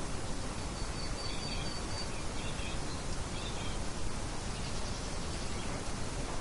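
Steady wind noise, with faint high bird chirps from about a second in to past the middle.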